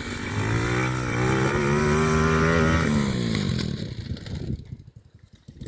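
RC quad bike's motor revving up, holding high, then dropping back and fading away as the bike drives off.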